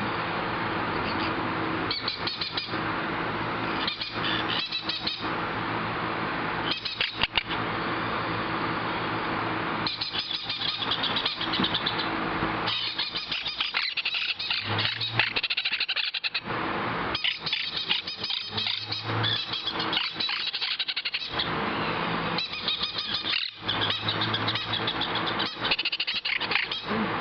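Baby blue quaker parrots (monk parakeets) chirping and squawking in repeated bursts, over a steady background hiss and low hum.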